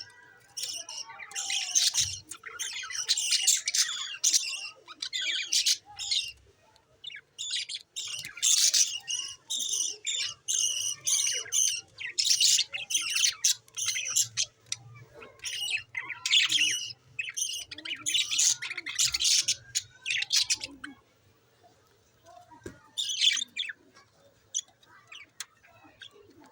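Budgerigars chattering and squawking in rapid, high-pitched bouts. The chatter is loudest through the first two-thirds and thins out to occasional calls near the end.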